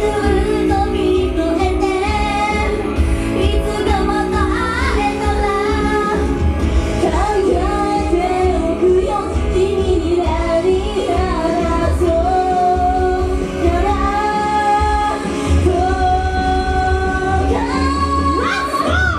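Female idol group singing a pop song live over a full accompaniment with a heavy bass.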